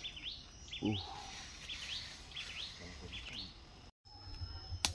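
A bird calling over forest ambience: a quick series of short notes that dip and rise in pitch, about two a second, stopping after about three and a half seconds. A brief low sound about a second in, and a sharp click at the very end.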